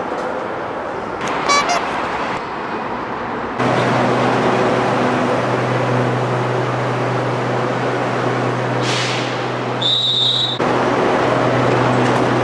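Electric commuter train running, with a steady low hum that steps up sharply about three and a half seconds in. A short high beep sounds about ten seconds in.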